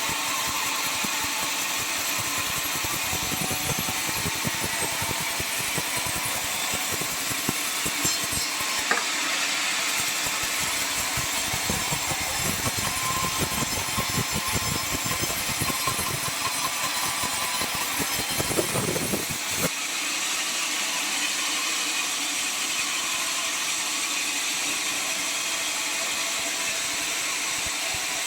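Sawmill circular saw cutting through a large albasia log, running steadily with a rough, rattly cutting noise through the middle that stops abruptly about two-thirds of the way in, after which the saw keeps running.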